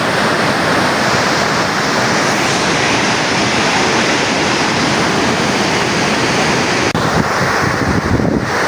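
Water rushing down a dam's service spillway, a loud, steady rush. About seven seconds in the sound changes suddenly to a duller, gustier rumble, with wind buffeting the microphone.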